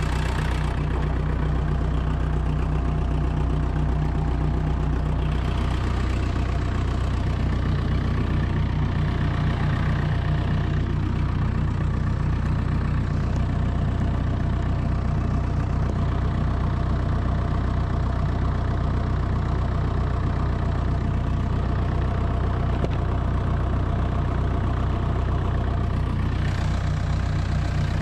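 ASV RC85 compact track loader's diesel engine idling steadily just after a cold start, warming up.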